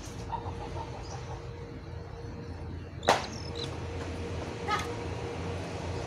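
Caged jongkangan bird calling: a few soft short notes in the first second, then a sharp loud call about three seconds in and a second, fainter call near five seconds, over a faint steady hum.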